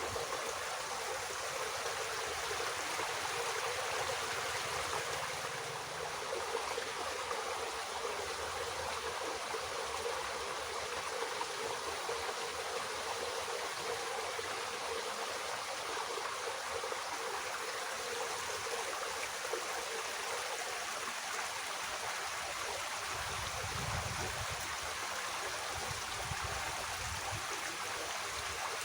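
Water flowing steadily in a small irrigation ditch, a continuous rushing and trickling.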